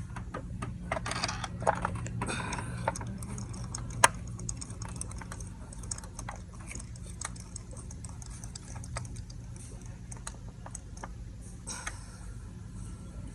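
Irregular light metallic clicks and ticks of hand tools working on the engine during spark plug replacement, with one sharper knock about four seconds in, over a steady low hum.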